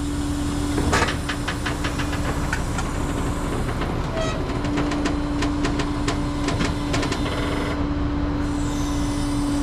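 Rollback tow truck's hydraulic bed being raised: the truck's engine and hydraulic pump run with a steady hum, with a string of metal clicks and clanks through the first seven seconds or so.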